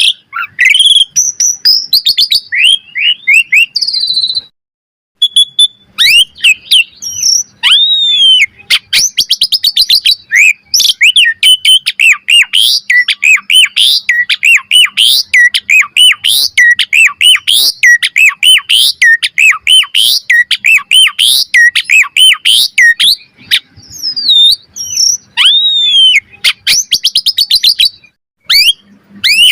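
Asian pied starling singing a loud, rapid and varied song of whistles, chirps and clicks, with two short pauses, about five seconds in and near the end.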